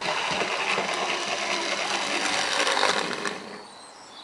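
Small mechanism running with a dense rattling clatter full of fine clicks; it starts abruptly and fades out after about three seconds.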